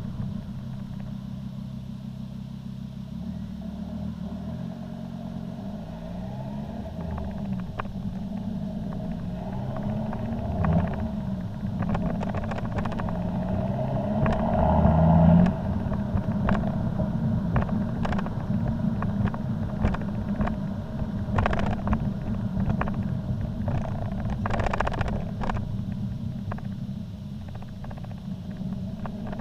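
Volvo C30 D5's five-cylinder turbodiesel running through an aftermarket cat-back exhaust with the diesel particulate filter removed, its note rising and falling, building to its loudest about halfway and then dropping off suddenly. Scattered short clicks and knocks through the second half.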